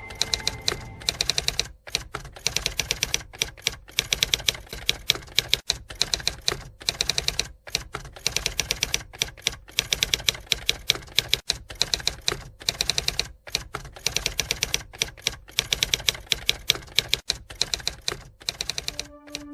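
Typewriter keys clacking in fast runs of strokes broken by short pauses, in the manner of text being typed out.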